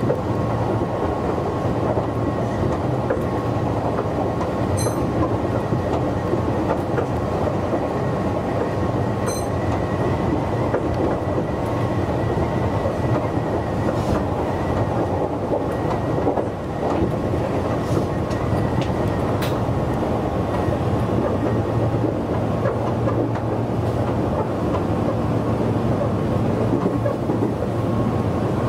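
Meitetsu 6800-series electric commuter train running along the line, a steady rumble of wheels on rail with a few isolated clicks, heard from inside the cab.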